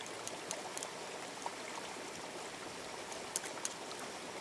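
River water flowing steadily, with a few short, faint high clicks scattered through it.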